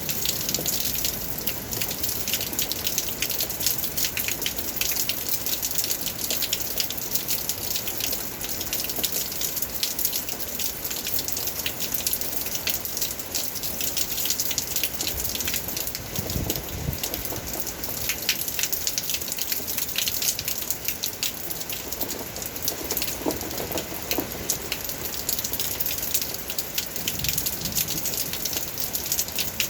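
Rain falling steadily: a dense patter of countless drops with water running and splashing.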